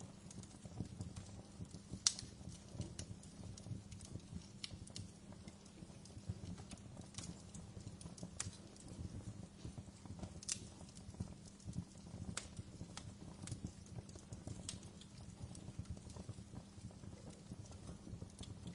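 Wood fire burning in a fireplace: a steady low rumble of flames with irregular sharp crackles and pops, one louder pop about two seconds in.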